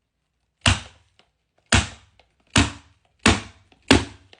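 Five sharp, evenly paced strikes, a little over one a second, from a hand tool striking during carpet installation work on the floor.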